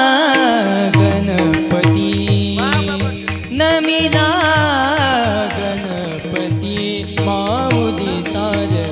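Marathi devotional abhang singing: a voice sings a long, ornamented wordless line that glides and curls in pitch over a steady held drone, with regular drum strokes keeping the beat.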